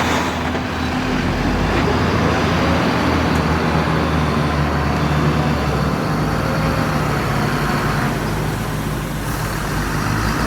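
Heavy diesel engine of earthmoving machinery running steadily, with a low engine hum that changes pitch about six seconds in.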